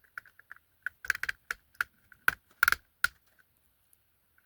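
Irregular sharp clicks and taps of small hard parts being handled and fitted together while a model locomotive is reassembled.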